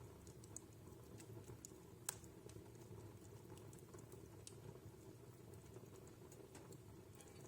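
Wood fire in a home fireplace crackling faintly: scattered small snaps over a low steady rumble, with one sharper pop about two seconds in.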